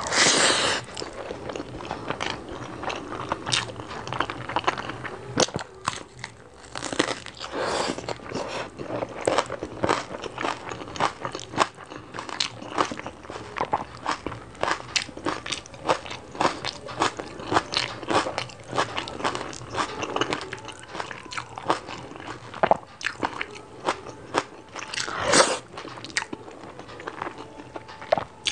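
Close-miked chewing and biting of rice and chicken curry eaten by hand: a constant run of wet clicks and crunches. There is a louder bite right at the start and another a few seconds before the end.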